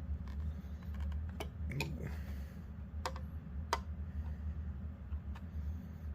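Screwdriver prying at the snap-fit plastic panels of a Theragun massage gun: a handful of sharp, irregular plastic clicks as the clips give. A steady low hum runs underneath.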